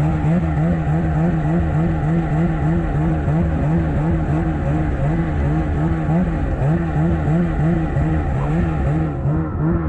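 Small engine of a gas-powered rope winch running hard and steady under load while it pulls a dead snowmobile uphill, its pitch wavering slightly in a regular rhythm. Near the end it begins to ease off.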